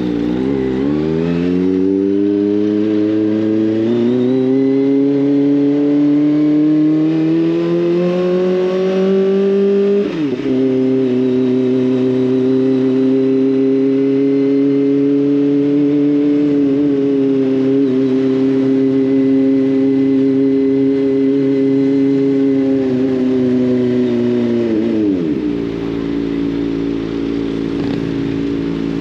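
Kawasaki ZX25R's inline-four engine running through an SC Project aftermarket exhaust while riding. The revs climb steadily for about ten seconds, drop sharply at a gear change, and hold fairly steady while cruising. They fall away as the throttle closes about 25 seconds in, then start climbing again near the end.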